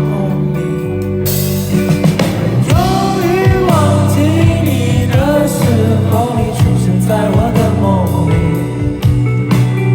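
Live rock band playing, with bass and drums under a wordless, wavering vocal line that comes in about two and a half seconds in.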